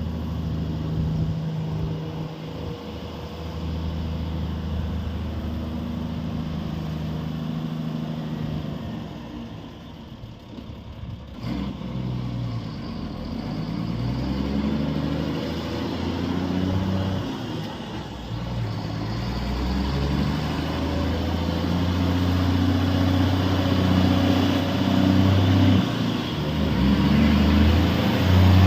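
Empty logging truck's diesel engine running, its pitch stepping up and down, with a quieter spell partway through and growing louder toward the end.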